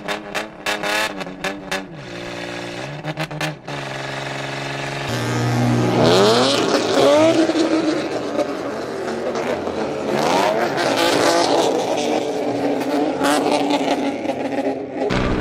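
Modified vehicle engine and exhaust revving. It starts with a quick run of throttle blips, then holds steady notes that step in pitch, and then climbs in several rising revs.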